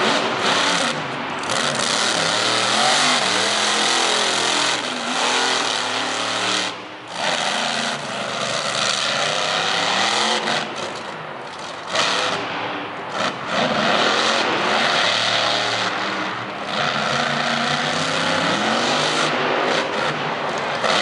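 Monster truck's V8 engine revving hard, its pitch repeatedly rising and falling as the throttle is worked, with a couple of brief dips where it backs off.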